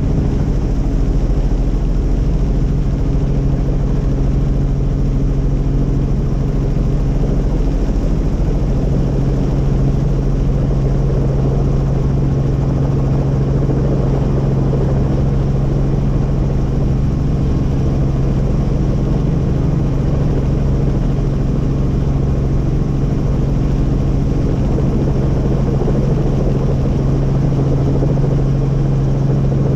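Helicopter engine and rotor noise: a loud, steady drone with a strong low hum.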